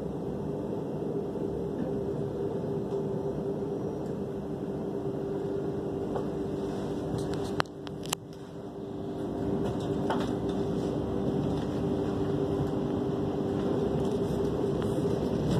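Train running along the track, heard from inside the carriage: a steady rumble with a low hum. Two sharp clicks come close together about eight seconds in; the noise then dips briefly and builds back up.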